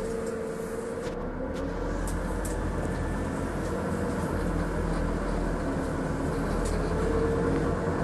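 Scania Citywide 12LF CNG city bus running, heard from on board: a steady gas-engine hum with road noise and a few light ticks.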